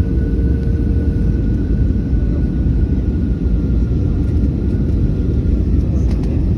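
Airbus A321neo jet airliner during its landing, a loud steady low rumble with a faint steady whine above it.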